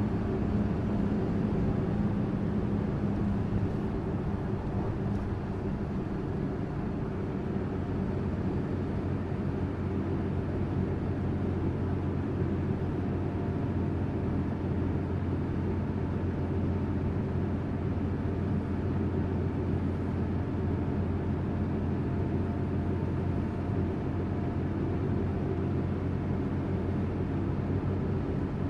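Tourist bus engine running steadily with road noise: a constant low hum whose pitch holds steady throughout.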